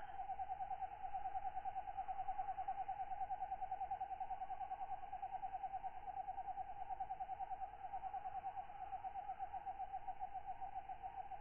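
A katydid calling in a steady, rapidly pulsing trill at one pitch, with a fainter chorus of night insects behind it.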